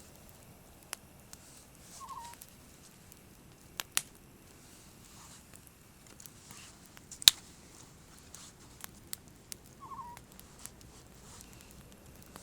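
Campfire crackling: scattered sharp pops and ticks, the loudest about seven seconds in. Two faint short chirps come about two seconds in and again near the end.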